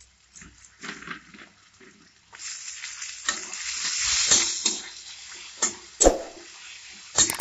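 Chopped tomato frying in hot oil with onion and spices in a kadai while a metal spatula stirs it. The sizzle swells a couple of seconds in and dies down again. Scrapes and knocks of the spatula against the pan are scattered through it.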